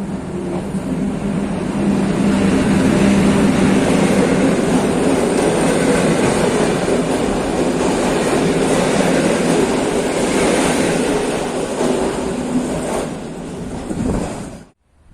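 PKP EP07 electric locomotive hauling an InterCity passenger train past at speed: a loud, steady rumble of wheels on rail, with a steady hum in the first few seconds. It cuts off suddenly near the end.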